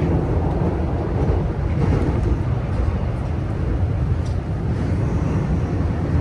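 Steady low rumble inside a moving JR West 323 series electric train, from the wheels on the rails and the running gear, with a few faint ticks.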